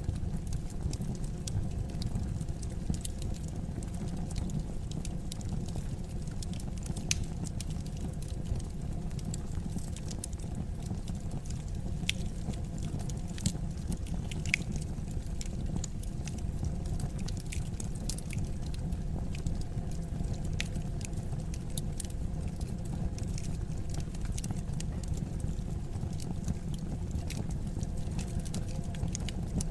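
Fire in a fireplace crackling: a steady low rumble with scattered sharp crackles and pops, a few louder ones around the middle.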